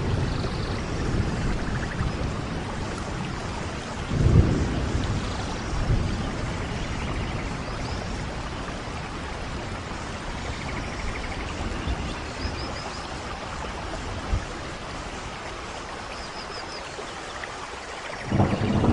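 Steady rain, with low rumbles swelling in about four seconds in and again near the end.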